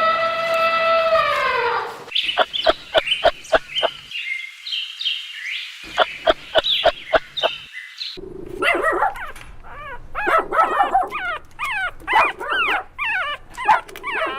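Dogs whining and yipping in short spliced clips: one long whine that falls at its end, then quick runs of high yips and whimpers.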